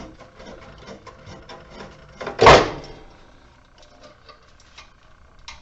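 Light handling noises of tools and metal parts: scattered small clicks and scrapes, with one louder knock about two and a half seconds in.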